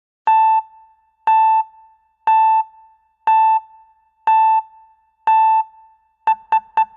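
Electronic beeping sound effect: six short beeps at one pitch, about a second apart, then quickening to about four beeps a second near the end, like a countdown timer.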